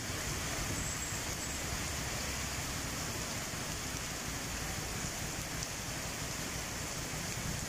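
Heavy tropical downpour: rain falling hard and steadily on wet pavement, an even hiss with no breaks.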